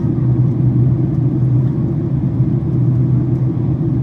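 Steady low rumble of a Boeing 767-400ER airliner's cabin in descent: engine and airflow noise heard from inside the cabin, even throughout.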